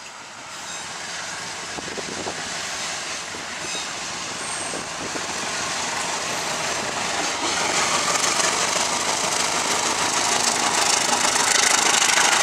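Diesel locomotive hauling a passenger train, approaching and passing close by; its engine and the rolling noise of the coaches grow steadily louder.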